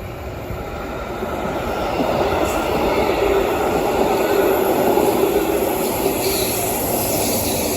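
A Berlin S-Bahn electric train running along the tracks below, its sound building up to its loudest about halfway through, with a steady hum.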